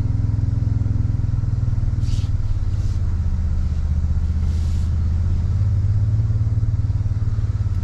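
Toyota Tundra's engine running steadily, a low drone heard from inside the cab, its pitch pattern shifting slightly a little over two seconds in. Two short hisses sound over it, at about two seconds and four and a half seconds.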